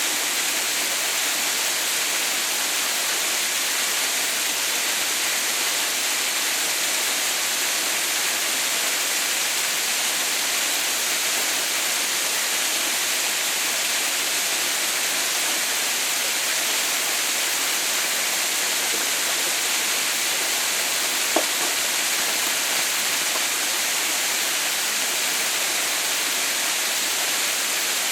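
Haha no Shirataki waterfall running: a steady, even rush of falling water. One short tick is heard about three-quarters of the way through.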